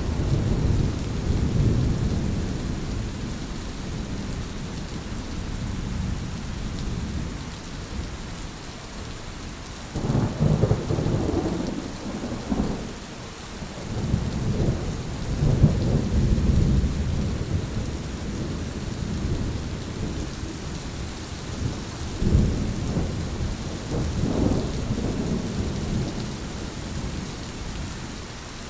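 Thunderstorm: steady rain with low, rolling thunder that swells and fades again and again, growing louder about ten seconds in, around fifteen seconds, and twice more after twenty seconds.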